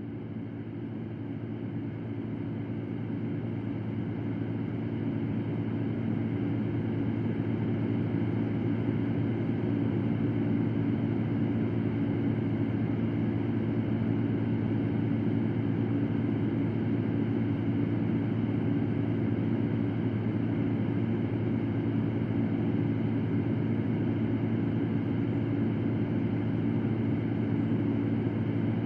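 Electric fan running steadily: a rush of air over a low motor hum. It grows louder over the first several seconds, then holds even.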